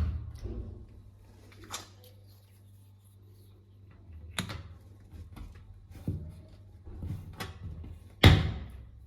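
Knocks and clicks as covers are pressed into the transit-bolt holes on the back panel of a washing machine, coming every second or two, with the loudest knock near the end.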